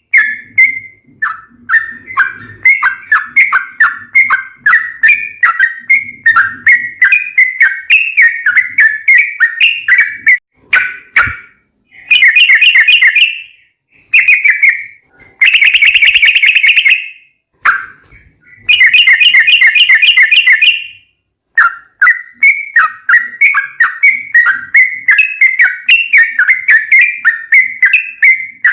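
Yellow-vented bulbul (trucukan) song: a steady run of bubbly chirping notes, broken by three long, fast rolling trills, the 'ropel', about twelve, fifteen and nineteen seconds in.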